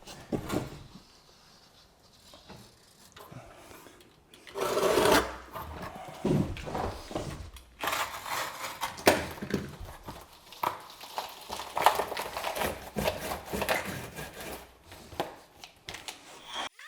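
A blade cutting and scraping through cured sealant at a shower drain joint, in irregular rubbing strokes, with a louder stretch about five seconds in.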